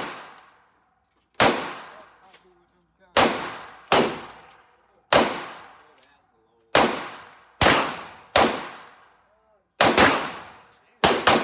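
Gunshots at a firing range: about ten single shots at an uneven pace of roughly one a second, some coming in quick pairs, each followed by a fading echo.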